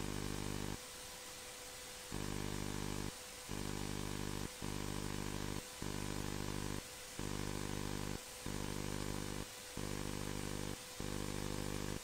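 Steady engine drone made of many fixed tones, cutting out briefly about eight times, once for over a second, as if passing through an intercom or radio feed that gates on and off.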